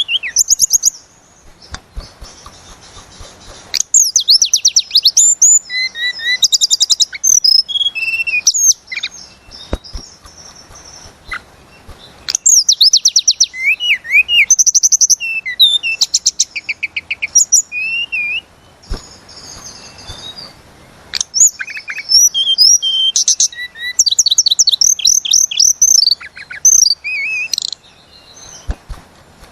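Hill blue flycatcher (tledekan gunung) singing loudly: long rolling phrases of fast repeated whistles and trills, delivered in bursts of a few seconds with short pauses between them.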